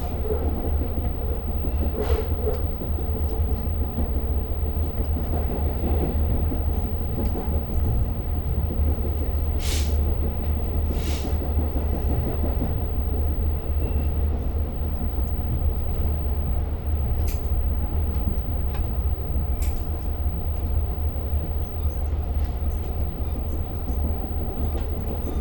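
Long Island Rail Road passenger train running between stations, heard from inside the car: a steady low rumble with a few sharp clicks scattered through it.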